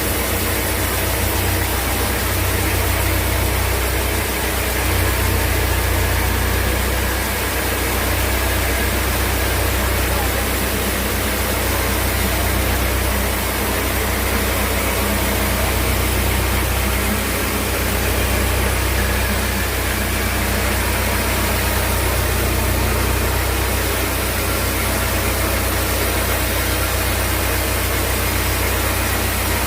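Sawmill machinery running steadily, a deep engine-like drone under a constant hiss.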